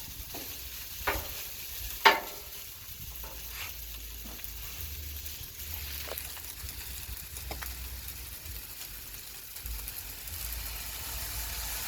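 Fried rice sizzling on a Blackstone flat-top griddle, with a few short scrapes and clicks of a spatula against the griddle top, the sharpest about two seconds in.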